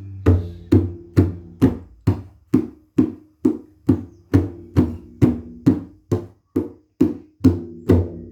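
Music: a drum struck in a steady beat, a little over two strokes a second, each stroke ringing briefly with a low tone.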